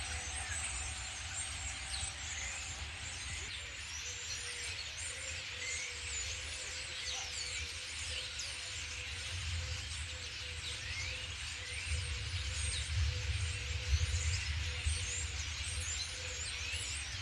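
Outdoor background of many short bird chirps over a low rumble, with a faint steady hum; the rumble grows louder about two-thirds of the way through.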